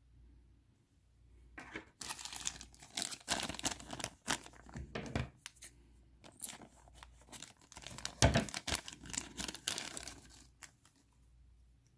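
Small plastic bag crinkling and rustling as it is handled and opened, loudest a little after eight seconds in.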